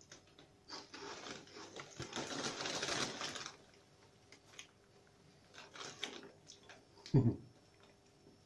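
Close-up crunching of a light, puffed chicken-flavoured snack chip being chewed for a few seconds, followed by softer crackles of the crisp packet being handled and a short low sound near the end.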